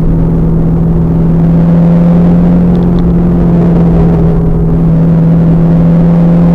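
2000 Pontiac Trans Am Firehawk's LS1 V8 running under way at steady revs, its note holding level throughout, with a heavy rumble from the poorly recorded onboard audio.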